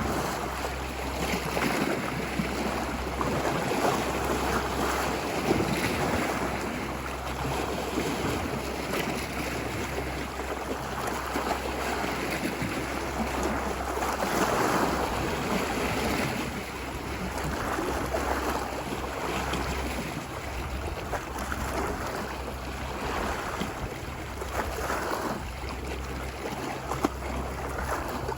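Ocean waves washing ashore on a beach, a steady surf wash that swells and eases every few seconds, with a low rumble underneath.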